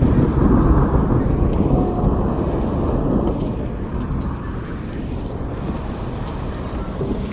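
Thunder rumbling low and slowly dying away over about four seconds, leaving a steadier storm rumble.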